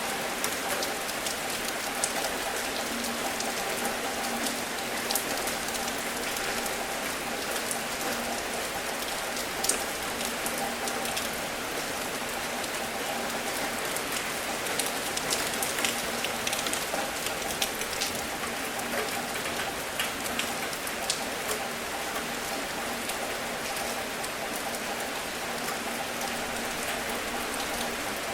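Steady rain falling, with scattered sharp drips of individual drops landing close by.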